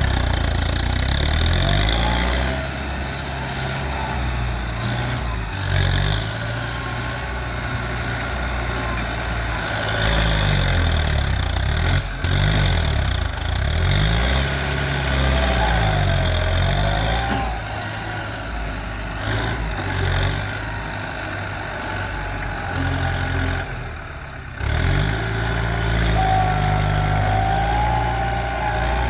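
Kubota M108S tractor's diesel engine working under load, its revs rising and falling again and again as it pushes soil, with a thin wavering whine in the middle and again near the end.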